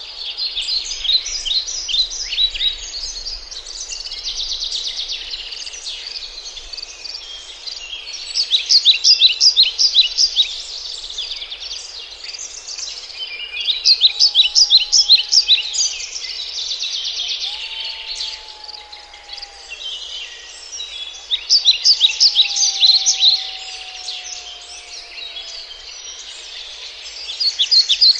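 Birds chirping in quick, high, repeated bursts that swell loud every few seconds, with a few faint, lower, drawn-out whistles in the middle.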